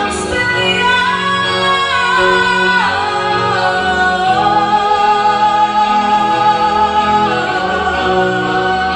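Live band music with a singer, who holds long notes, one of them for several seconds from about halfway through.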